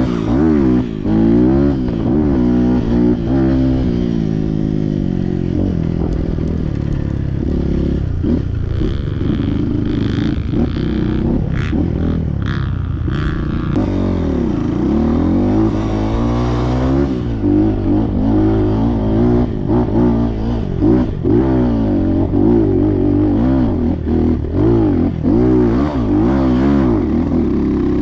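Trail motorcycle engine revving hard and easing off again and again, as on an off-road climb, with some clattering mixed in.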